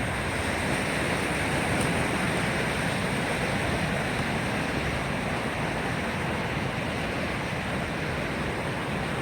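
Steady rush of falling water from a waterfall, an even roar with no pauses.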